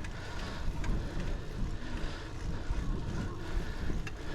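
Wind rushing over the microphone of a chest-mounted camera on a moving bicycle: a steady low rumble, with a few faint clicks.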